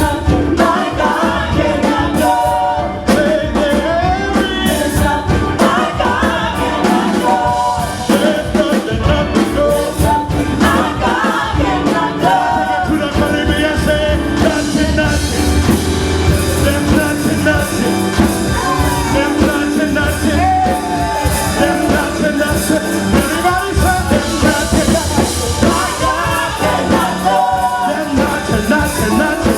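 Live worship band music with singers over drums and amplified instruments, playing steadily.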